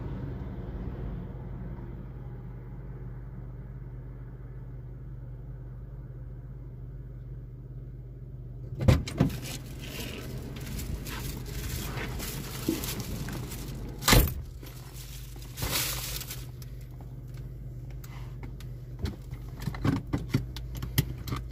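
Car engine idling with a steady low hum. From about nine seconds in, a series of sharp knocks and clicks, loudest about nine and fourteen seconds in, sounds like handling inside the parked car.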